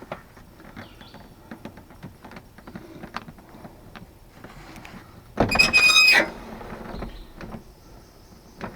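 Light clicks and taps of hand work on a pickup truck door, with one loud squeal lasting under a second about five and a half seconds in.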